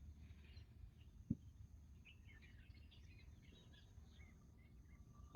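Near silence, with faint scattered bird chirps and one soft low thump about a second in.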